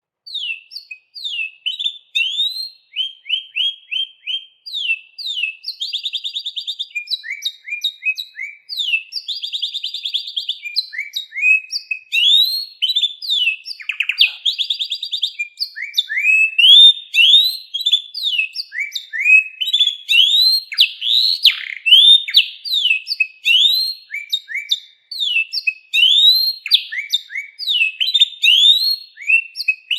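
Canary singing a long, unbroken song of quick sweeping whistled notes, broken every few seconds by fast buzzy trills.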